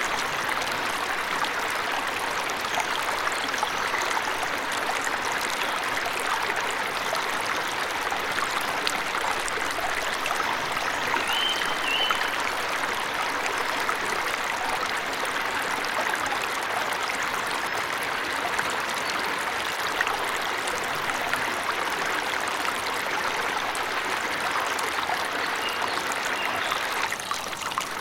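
Steady rush of a forest waterfall or stream. A few brief, high bird chirps come in about halfway through and again near the end.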